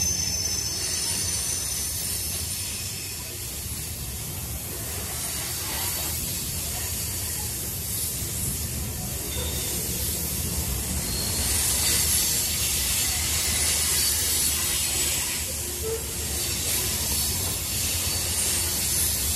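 Freight train moving through a rail yard: a steady low rumble and hiss, with thin high wheel squeal fading out over the first few seconds.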